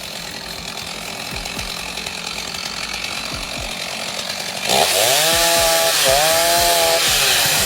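Chainsaw engine revving up sharply about two-thirds of the way in and running at high speed, its pitch dipping once briefly before climbing back. Before that, a steadier machine noise with faint low thuds.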